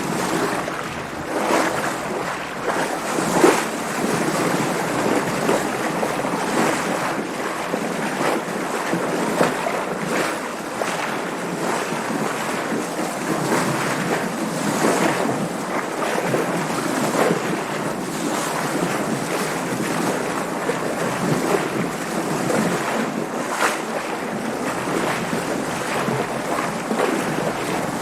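Water splashing and sloshing against a sailboat's hull, with wind rushing over the microphone. Irregular splashes go on throughout, one sharper one about three and a half seconds in.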